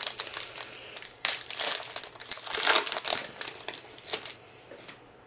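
Crinkling and rustling of a trading-card pack wrapper as the pack is opened by hand, in irregular bursts that are loudest in the middle and fade near the end.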